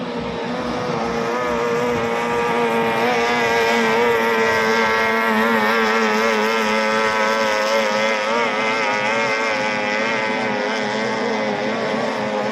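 An 18 hp outboard motor on a racing boat running flat out at high, steady revs, its pitch wavering slightly; it grows a little louder about two seconds in.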